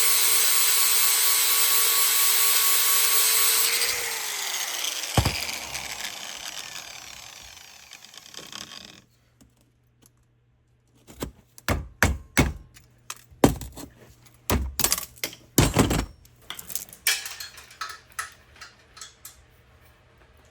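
A high-speed power tool runs steadily at full speed, is switched off about four seconds in and spins down with a falling whine over several seconds. After a short pause comes a series of sharp clanks and clicks.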